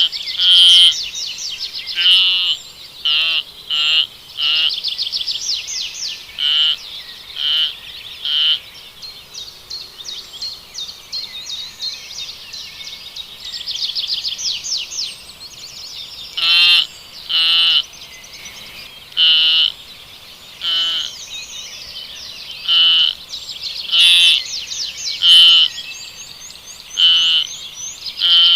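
Short, wavering, high-pitched animal calls repeated every second or two, with a pause of several seconds in the middle, over a steady background of fast high chirping.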